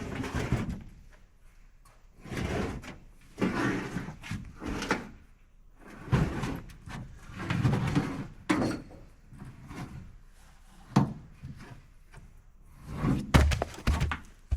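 Irregular knocks, thuds and scraping of things being handled, one every second or two, with a few sharper knocks around 11 and 13 seconds in.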